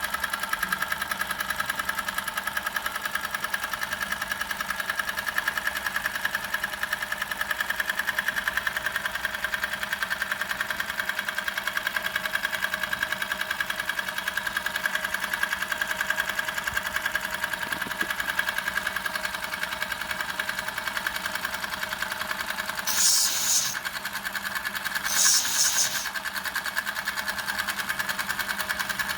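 Doll 511/3 toy steam engine running steadily at speed: a fast, even mechanical clatter with a constant high whine. Two short hisses come near the end.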